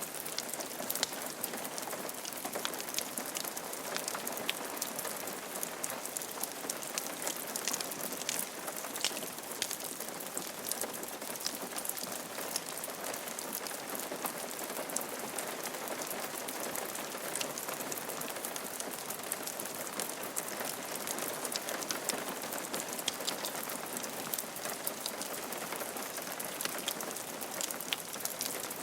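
Steady rain falling on a roof: an even hiss full of many small drop ticks.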